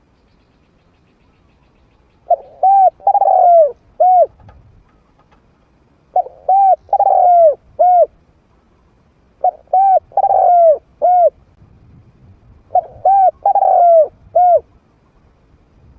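Trained decoy spotted dove cooing: four matching phrases about three and a half seconds apart, each of four notes with the third note the longest.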